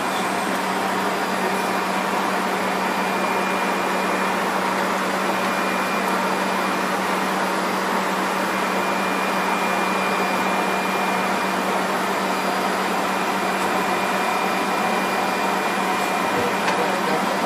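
Steady rushing noise on the flight deck of a Fokker 100 airliner in flight: airflow and air-conditioning hiss, with a constant low hum and a thin steady high whine.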